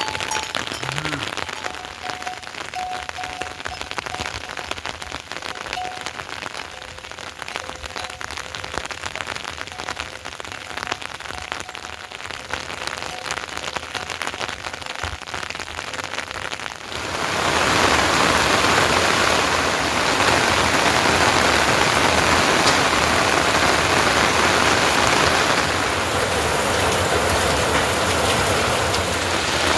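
Rain falling: a crackling patter of drops, which about 17 seconds in gives way suddenly to a louder, denser, steady hiss of heavy rain.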